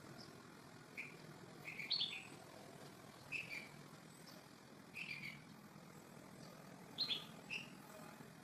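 A bird chirping: short high-pitched notes in small clusters every one to two seconds, over a faint steady background hiss.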